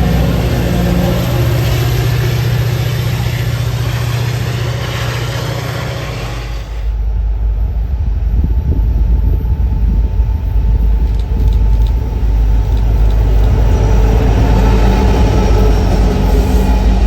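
A train going by: a diesel locomotive's engine drone over wheel and rail noise for the first six seconds or so, then an abrupt change to a deep rumble with little treble.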